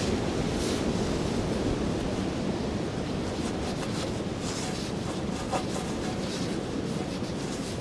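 Strong wind blowing steadily in gusts, rushing and buffeting at the microphone, with a faint click about two-thirds of the way through.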